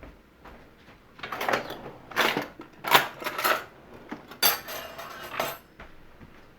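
Handling of the cardboard robot box: a series of scraping, rustling bursts as the packaging tape is pulled off, ending in a longer tearing sound lasting about a second.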